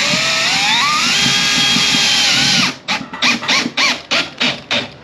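Power drill motor spinning up with a rising whine, running steadily for a couple of seconds, then stopping. It is then pulsed in about seven short trigger bursts in quick succession.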